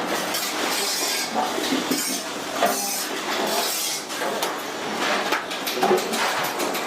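Rapid light metallic clinks and taps, irregular and continuous, over a noisy workshop background.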